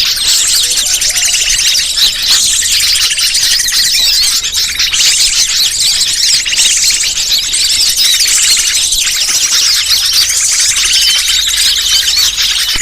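Bird-lure recording: a dense, continuous chorus of many small birds chattering and chirping over one another at high pitch.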